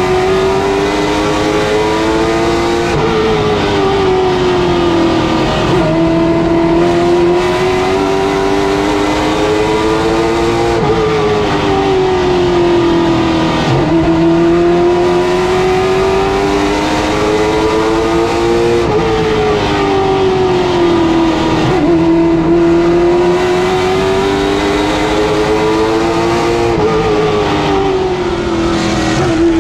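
Late model stock car's V8 engine at racing speed on a short oval. Its pitch climbs steadily down each straightaway and falls off going into each turn, a rise-and-fall cycle about every four seconds.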